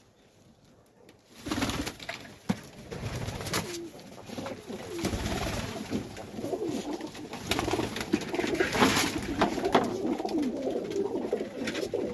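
Domestic pigeons cooing in a loft, many overlapping calls, with a few knocks and wing flutters.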